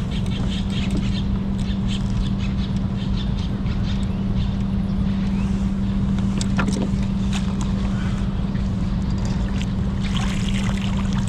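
A steady low hum with wind rumble on the microphone, and scattered light ticks and small splashes.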